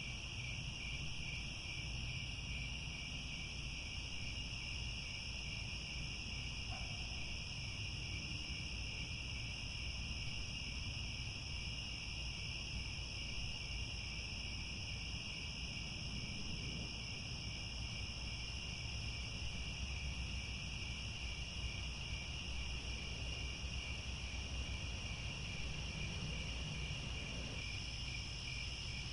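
A chorus of crickets chirring steadily without a break, high-pitched, over a faint low rumble.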